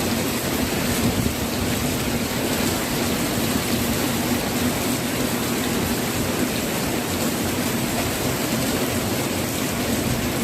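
Heavy monsoon rain pouring down steadily in a dense, even hiss.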